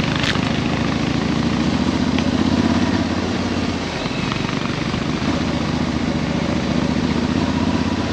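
Adventure motorcycle engine running steadily as the bike rides a dirt track, heard on board, with a haze of wind and riding noise over it.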